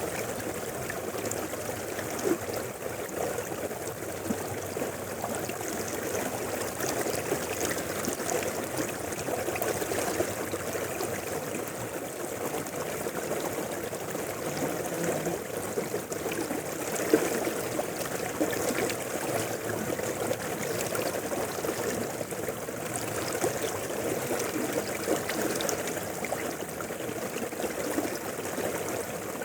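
Shallow mountain river flowing over stones, a steady rush of water with babbling and gurgling and an occasional slightly louder splash.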